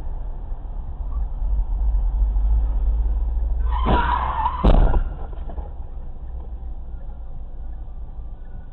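Car driving with a steady low road and engine rumble. About four seconds in, tyres screech briefly under hard braking, followed at once by a loud bang of a collision, the loudest sound.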